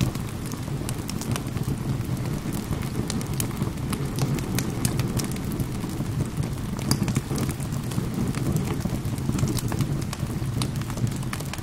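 Wood fire crackling, with many irregular sharp pops and snaps over a steady low rush of rain.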